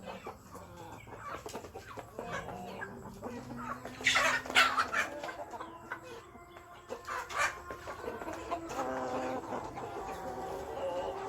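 Chickens clucking, several calls overlapping, with a loud harsh call about four seconds in and another a little after seven seconds.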